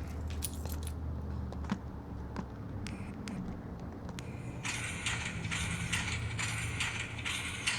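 Steam-locomotive sound from a TCS WOW sound decoder in a Hornby OO 0-4-0T 'Pug' model, played through its small speaker. Scattered clicks sound over a low steady hum, then rhythmic exhaust chuffs start about two-thirds of the way through, about two a second.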